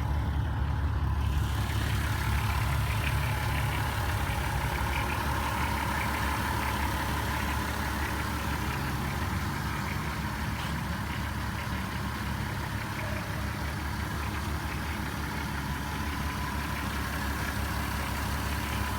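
2003 VW Jetta GLI's 2.8 L 24-valve VR6 (BDF) engine idling steadily, a quiet-running engine at 207,000 km.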